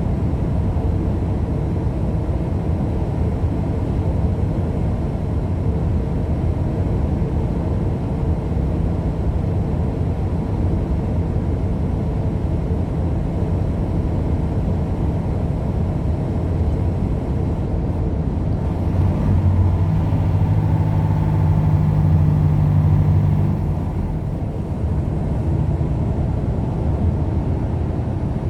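Steady engine and road noise of a car being driven, with a louder engine tone for about five seconds near the end before it settles back to the steady rumble.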